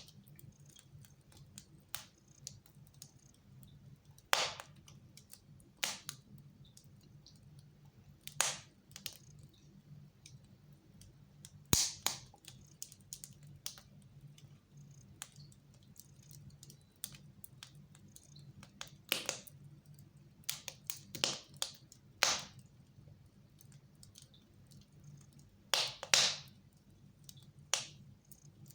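Wood fire in a fireplace crackling, with irregular sharp pops and snaps a second or more apart over a low steady hum. The loudest pops come about twelve and twenty-six seconds in.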